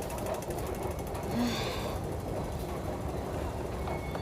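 Steady low mechanical rumble of a metro station, with one short breathy hiss about a second and a half in.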